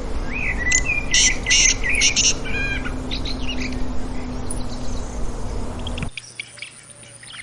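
Birds chirping in a quick string of loud calls for about two seconds, then fainter calls, over a steady outdoor background with a low hum. About six seconds in, the background cuts abruptly to a quieter one with faint, sparse chirps.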